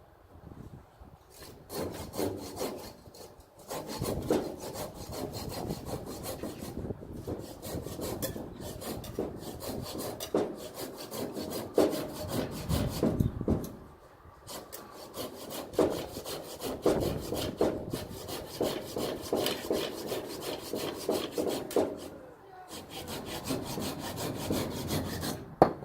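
Hand saw cutting through firewood in repeated back-and-forth strokes, pausing briefly twice.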